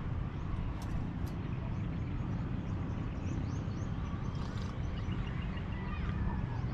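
Wind rumbling steadily against the microphone, with a few faint high chirps in the second half.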